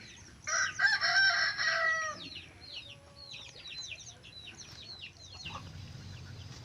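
A rooster crows once, a loud call of about a second and a half starting about half a second in. It is followed by a quick run of short, high, falling chirps.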